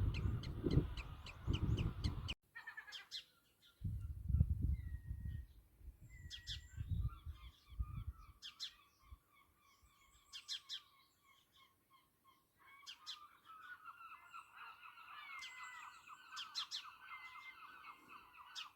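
Birds giving alarm calls: short sharp notes and chatter, with a steadier trill from about two-thirds of the way in. Wind rumbles on the microphone during the first half.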